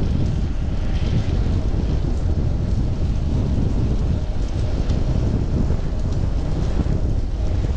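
Wind buffeting a chest-mounted GoPro's microphone while cycling, a steady low rumble.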